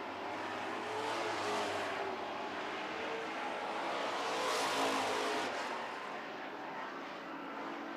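Race truck engines running at full throttle as the field passes, swelling to their loudest about halfway through and then fading.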